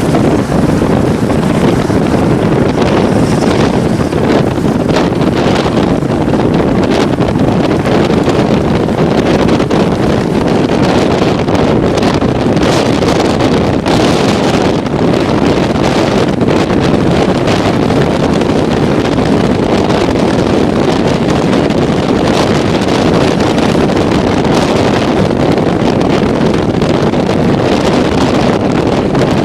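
Steady, loud wind buffeting the microphone.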